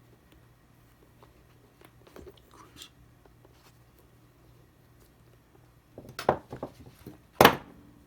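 Small plastic parts being handled at close range: faint rustles and taps, then a quick run of sharp clicks and one loudest snap near the end.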